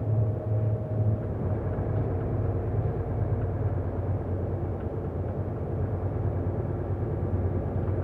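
Truck engine running steadily with road noise, heard from inside the cab while driving: a constant low drone.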